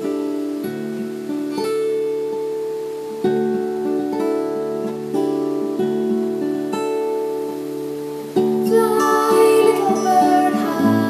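Music: an acoustic guitar playing a gentle chord progression. About eight seconds in it gets louder as a wavering melody line joins.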